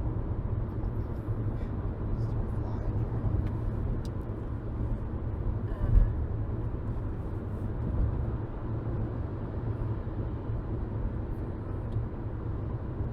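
Steady low rumble of road and engine noise inside a moving car's cabin, with a brief thump about six seconds in.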